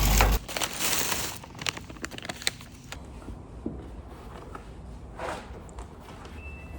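A low rumble cuts off abruptly, then scattered small clicks, taps and a soft swish of objects being handled.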